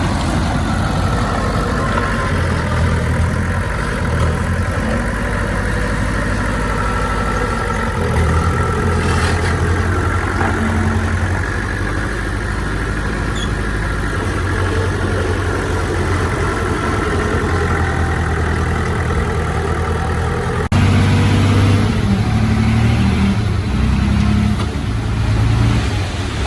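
Heavy diesel earthmoving machinery running, its engine note rising and falling with load. There is an abrupt cut about two-thirds of the way through, after which the engine is louder.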